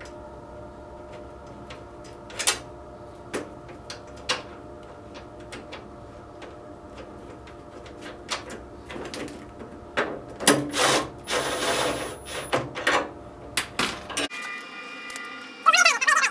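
Hand work with wrench, bolts and nuts on a snowblower's steel scraper blade: scattered light metal clicks and knocks over a steady low hum, then a busier stretch of louder clatter and scraping about ten seconds in.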